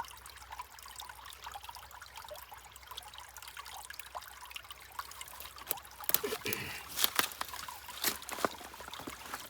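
Small stream trickling and gurgling over rocks, with a run of louder splashes and gurgles in the second half.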